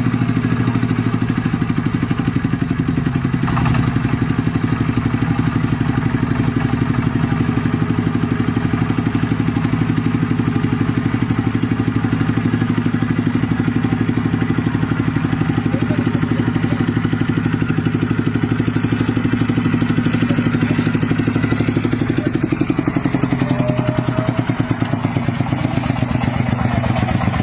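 Tractor engine running steadily, with a rapid, even chugging of firing pulses.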